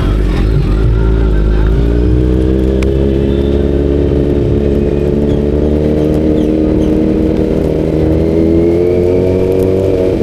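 Motorcycle engine pulling under steady acceleration, its pitch rising slowly and evenly, over a constant low rumble.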